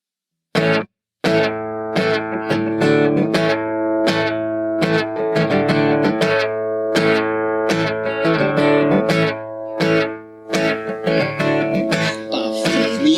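Instrumental introduction to a worship song played on guitar: chords struck in a steady rhythm, each ringing on into the next, starting about half a second in after a brief first chord.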